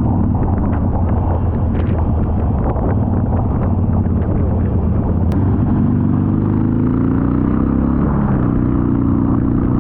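Harley-Davidson V-twin motorcycle engine running at road speed with wind and road noise; the engine note climbs, drops sharply about eight seconds in, then climbs again, as with a gear change.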